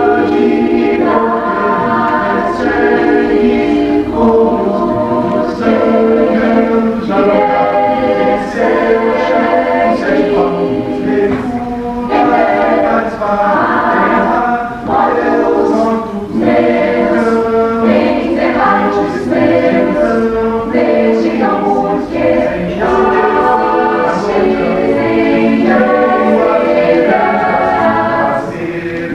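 Chamber choir singing a cappella in held chords that change about once a second.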